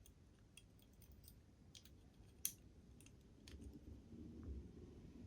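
Faint clicks and taps of small metal model-locomotive parts and tools being handled during reassembly, with one sharper click about two and a half seconds in and a low muffled handling rumble from about three and a half seconds on.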